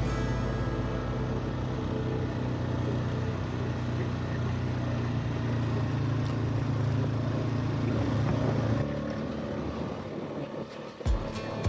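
A motor vehicle's engine runs steadily with a low hum, easing off about nine seconds in. A few short low thumps follow near the end.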